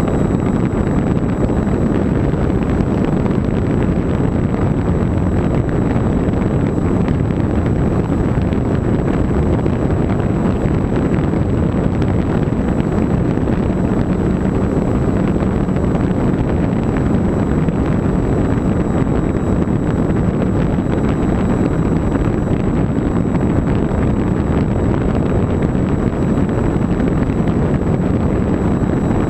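Steady, loud wind rush over a camera riding on an RC plane in flight, mixed with the plane's motor and propeller running at a constant setting. A faint steady high whine sits above it throughout.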